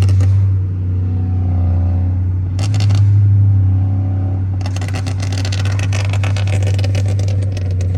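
A tuned car's exhaust crackling and popping in rapid bursts, with a short burst about three seconds in and a longer run in the second half. Under it runs a steady low engine drone.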